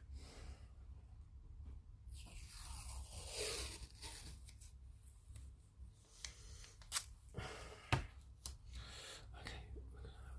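Masking tape being pulled and torn, a rasping peel about two seconds in, followed by scattered small clicks and taps of plastic model parts being handled, over a steady low hum.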